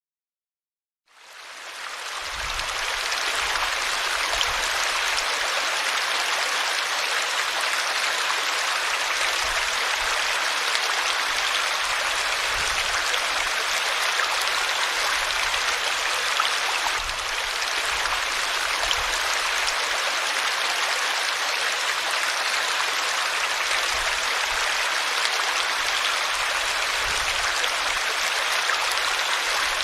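River water flowing: a steady rushing of running water that fades in about a second in.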